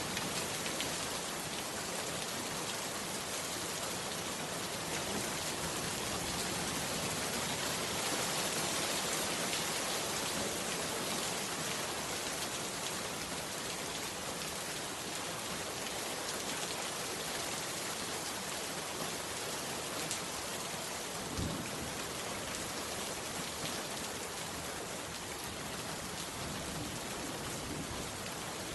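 Heavy rain falling steadily, an even dense patter. A single short, dull low thump sounds about two-thirds of the way through.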